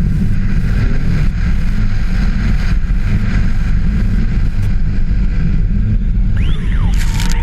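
Turbocharged Audi rally car driving on ice, engine running under load with a heavy, steady low rumble.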